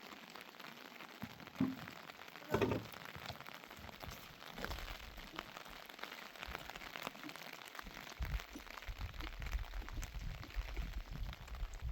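Rain falling and pattering as many small drop clicks on a surface, with two louder knocks about two seconds in and a low rumbling noise in the second half.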